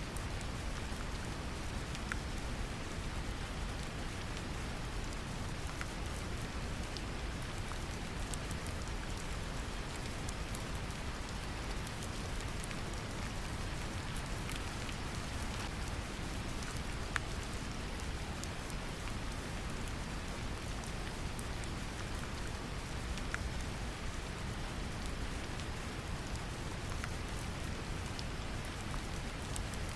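Steady brown noise, a deep even rumble, mixed with gentle rain, with scattered light drop ticks over it.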